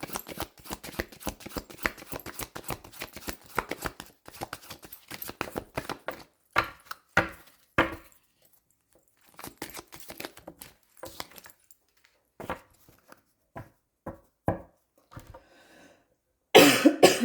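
Tarot or oracle cards being shuffled by hand: a fast run of dense card clicks for several seconds, then a few separate slaps as cards are laid down, and more scattered clicks. A cough near the end.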